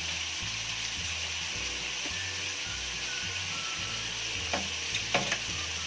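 Chicken pieces and onion sizzling steadily as they sauté in oil in a pan, with three sharp clicks near the end.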